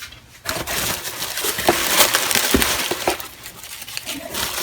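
Old metal hand tools being handled, clinking and clattering against each other, with crackly rustling and a run of sharp clicks that eases off after about three seconds.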